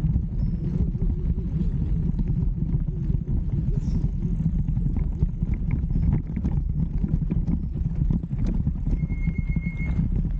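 Mountain bike rolling over rough trail: a steady low rumble with irregular clicks and knocks of the bike rattling.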